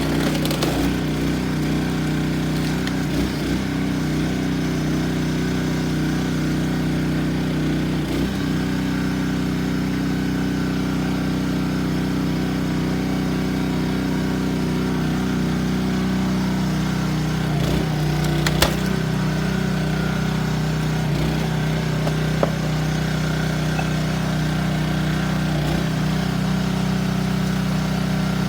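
Small petrol engine of a hydraulic log splitter running steadily, its pitch dipping briefly a few times as it takes load, with a sharp crack about 18 seconds in and a smaller one about 22 seconds in.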